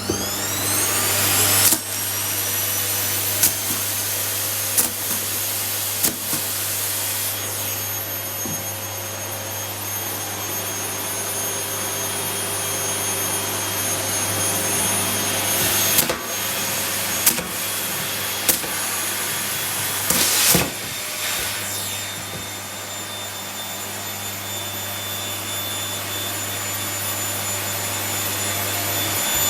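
Vacuum cleaner motor spinning up with a rising whine, then running steadily, with sharp knocks and clatters now and then as the nozzle strikes hard surfaces or picks up debris.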